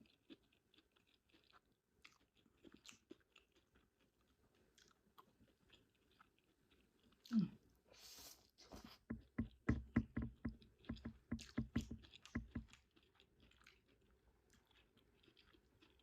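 Close-miked chewing of food, a run of regular chews about four a second lasting several seconds, after a louder bite about seven seconds in. Faint clicks come before it.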